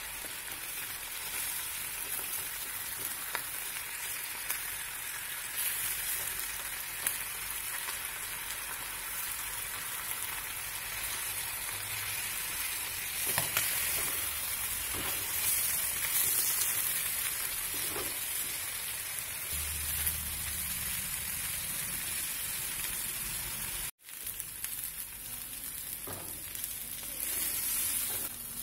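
Marinated chicken pieces frying in a pot, a steady sizzle with scattered light knocks from a wooden spatula turning them. The sound cuts out abruptly for a moment near the end, then the sizzle resumes.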